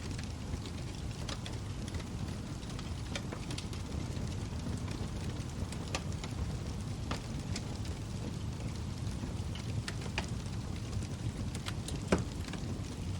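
Log fire burning with a steady low rumble and frequent sharp crackles and pops, one louder pop near the end.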